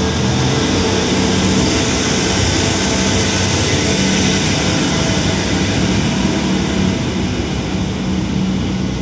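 Diesel multiple-unit express train pulling out past the platform: the underfloor engines hum steadily under the rumble of wheels on rail. The sound eases slightly as the last car goes by near the end.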